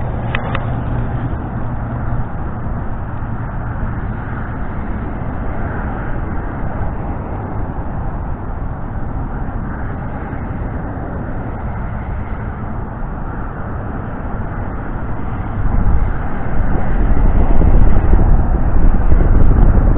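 Loud, steady low rumbling noise with no clear pattern, swelling louder about three-quarters of the way through.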